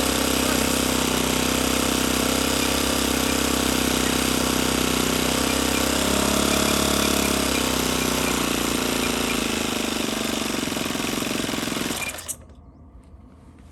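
Saito 50 four-stroke glow engine on a model plane running at a steady speed, its pitch shifting briefly about six seconds in, then cutting off sharply near the end. The owner judges it to be running rich at the bottom end and in need of fine tuning.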